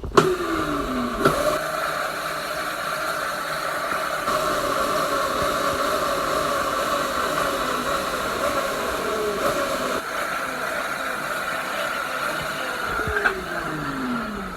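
Dirt bike engine running steadily, its revs falling back now and then with a dropping pitch, most clearly just after the start and again near the end.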